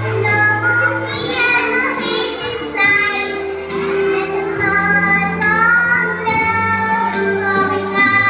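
A child singing a melody over a musical accompaniment with sustained bass notes.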